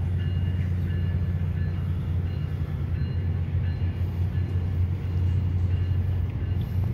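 Virginia Railway Express commuter train's stainless-steel passenger cars rolling past the platform as the train pulls out, a steady low drone under the rolling noise of the wheels. Faint high tones come and go.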